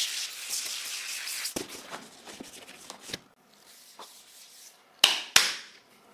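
Hands handling and rubbing something: a hissing rub at the start, a few sharp clicks, and two loud, sharp swishes about five seconds in.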